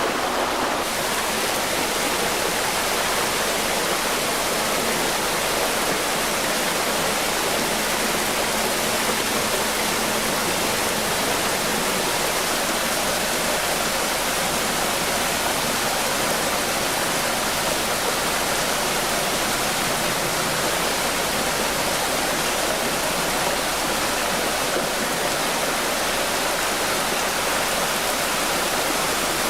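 Floodwater torrent rushing in a steady, loud roar of water.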